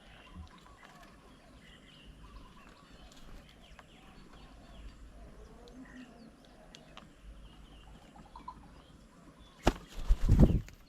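Small birds at a garden bird table chirping faintly on and off. Near the end, a sudden sharp knock and a loud, low fluttering rumble of under a second, like wings beating close to the microphone.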